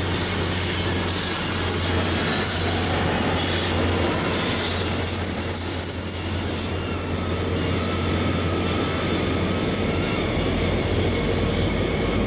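A train running along the rails, with a thin high-pitched squeal about halfway through.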